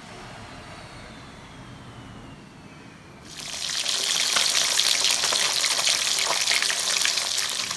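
Water from a kitchen tap starts suddenly about three seconds in and runs steadily into a sink, then eases off near the end.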